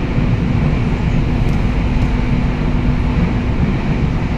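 Passenger train running along the track, a steady low rumble heard from inside the carriage; a steady hum in it drops out about three and a half seconds in.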